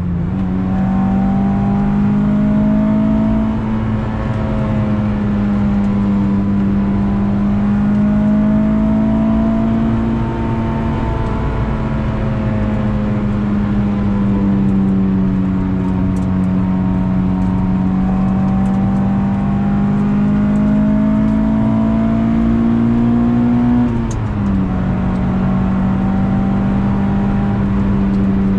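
Acura Integra GS-R's B18C1 1.8-litre VTEC four-cylinder running hard through a Yonaka exhaust under load. Its pitch steps up at the start, then rises and falls slowly as the revs change through the corners, with a sudden drop in pitch about 24 seconds in.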